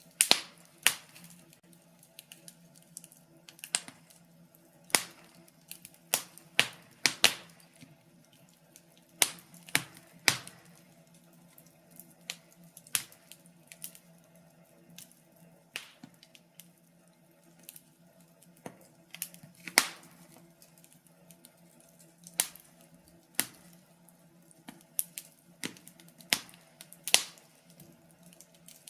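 Wood fire crackling: irregular sharp pops and snaps, sometimes one, sometimes a quick cluster, over a faint steady low hum.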